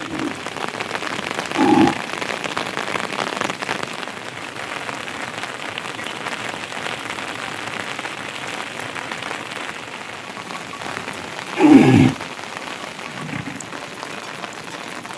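Heavy rain falling steadily. Two short, louder sounds break through it, one about two seconds in and a stronger one about twelve seconds in.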